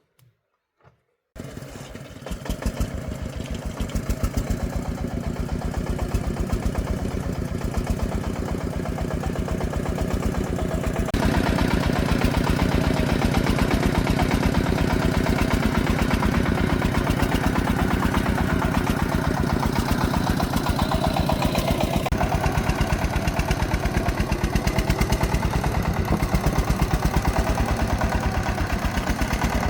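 Single-cylinder diesel engine of a công nông farm truck running with rapid, even firing beats. It comes in abruptly about a second in and gets louder about eleven seconds in.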